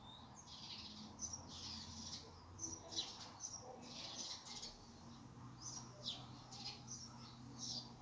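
Small birds chirping: a run of short, high chirps, a few each second, with brief pauses.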